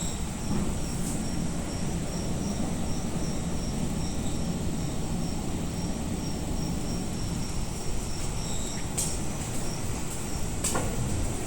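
Outdoor ambience: a steady low rumble under an insect chirping in an even high-pitched pulse, about three chirps a second. A couple of sharp clicks come near the end.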